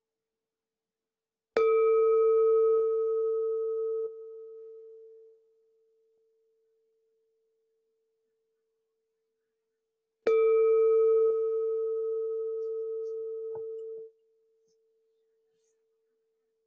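Meditation bell struck twice, about eight and a half seconds apart, each strike ringing out in a clear, steady tone that fades and then stops short after a few seconds. It marks the close of the meditation.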